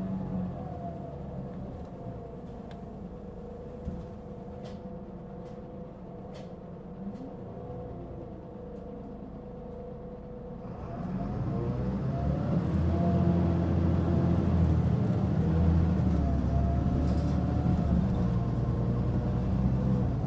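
Mitsubishi Fuso Aerostar city bus heard from inside. For about ten seconds it runs quietly with a steady whine and a few light clicks, then about eleven seconds in it pulls away under fairly firm throttle, and the engine and drivetrain grow louder with several whining tones shifting in pitch. The uploader calls this an unusually strong abnormal noise for this bus.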